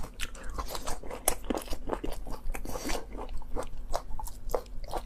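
A person chewing strips of spicy cowhide close to the microphone: a quick, irregular run of short wet clicks and bites.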